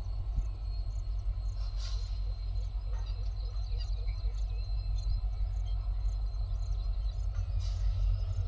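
Outdoor ambience: a steady low rumble with faint insect chirring and occasional bird chirps over it.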